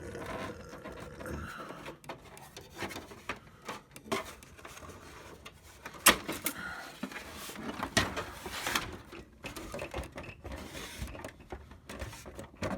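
HP 3330 printer's plastic housing being handled and worked at to free a side panel. Irregular clicks and knocks of plastic, with a sharp click about six seconds in and another near eight seconds.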